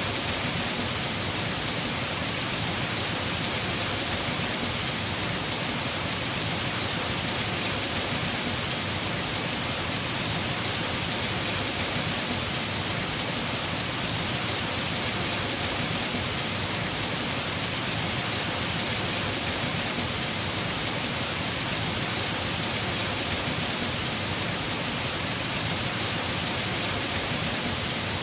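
Heavy rain falling steadily on a house roof, a dense even hiss of drops.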